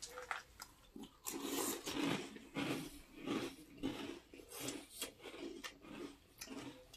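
Close-up chewing of a mouthful of crunchy fruity ring cereal soaked in milk: a run of short, rhythmic crunches about twice a second. A few light spoon clicks against the bowls come near the end.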